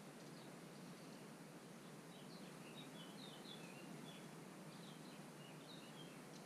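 Faint outdoor background hiss, with a small bird chirping a quick series of short high notes from about two seconds in until near the end.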